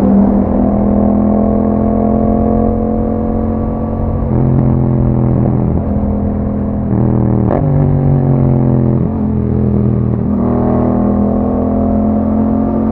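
Yamaha MT-07's 689 cc parallel-twin engine through an Akrapovic exhaust while riding. The engine note falls steadily for the first few seconds, then changes several times, with a quick rev about seven and a half seconds in.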